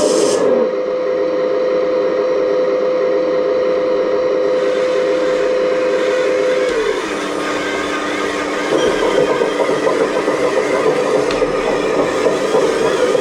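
Radio-controlled model excavator's electric drive running with a steady whine that steps down in pitch about seven seconds in, then turns rougher and noisier from about nine seconds on.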